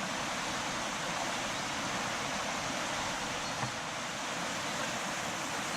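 Steady rushing of falling water, as from a waterfall or cascade.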